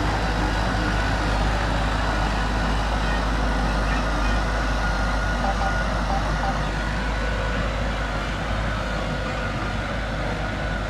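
Heavy earthmoving machinery engine running steadily under load, a continuous low rumble.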